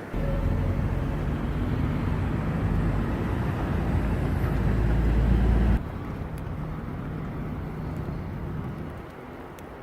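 City street traffic: a loud low rumble with the steady hum of a nearby vehicle engine, cutting off abruptly about six seconds in to a quieter traffic rumble.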